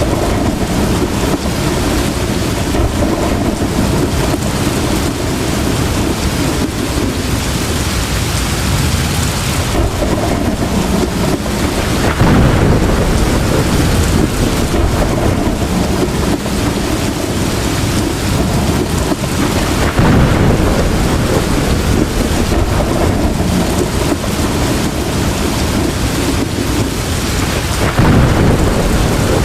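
Heavy rain pouring steadily in a thunderstorm, with rumbles of thunder swelling louder three times, about twelve, twenty and twenty-eight seconds in.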